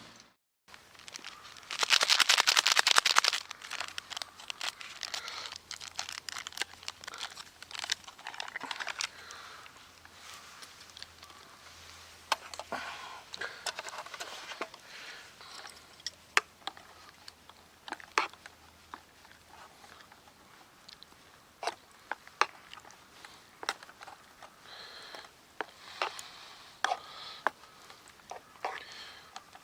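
Crinkly material being handled: rustling and crumpling with many scattered sharp clicks and knocks, after a loud noisy rush lasting about a second near the start.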